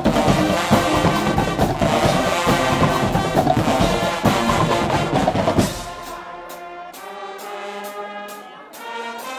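Guggenmusik carnival brass band playing loudly: trumpets, trombones and heavy drums together. About two-thirds of the way through, the drums and full band cut off, leaving quieter held notes.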